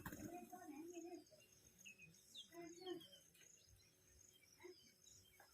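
Faint outdoor birds chirping in short scattered calls over a steady high insect trill.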